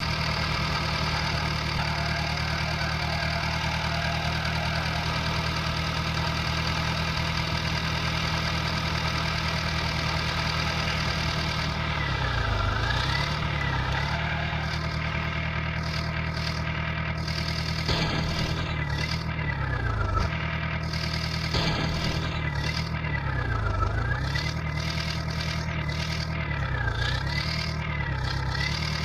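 Tractor engine running steadily at idle. From about twelve seconds in, its pitch dips and climbs back several times, as when the engine slows and picks up again.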